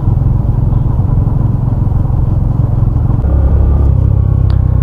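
Suzuki Hayate EP motorcycle's small single-cylinder four-stroke engine running while the bike is ridden, a steady low rumble whose pitch drops about three seconds in.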